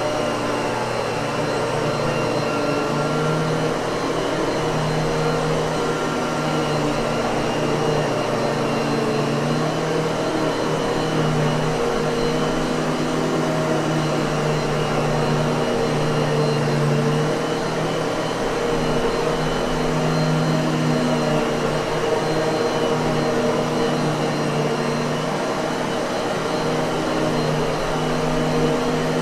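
Miele vacuum cleaner running steadily: an even motor hum and rush of air with a few constant whining tones, holding one speed throughout.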